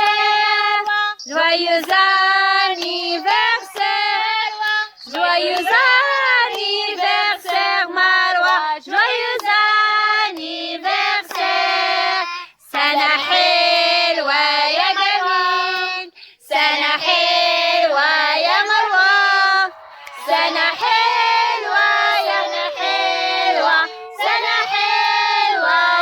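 Children's voices singing a birthday song, in sung phrases broken by short pauses.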